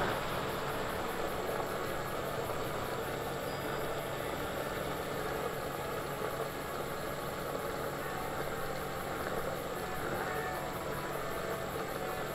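Steady motor vehicle engine noise, a continuous even rumble and hiss.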